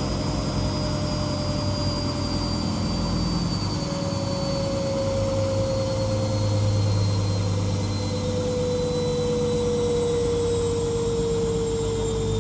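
Washing machine spinning, its motor whine falling slowly and steadily in pitch as the drum slows down.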